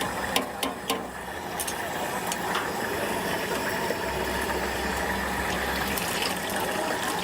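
Stinky tofu deep-frying in hot oil: a steady sizzling hiss, with a few sharp clicks in the first second.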